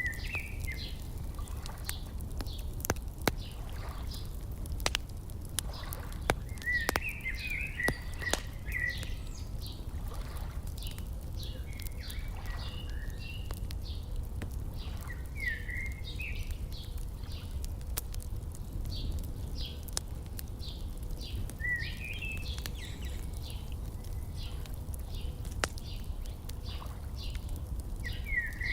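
Wood fire crackling with irregular sharp pops, while small birds chirp in short repeated phrases over a steady low rumble.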